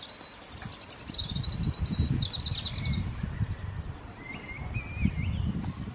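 A songbird singing: a run of quick high chirps and trills, then a few short falling notes and a lower warble about three and a half seconds in, over an uneven low rumble.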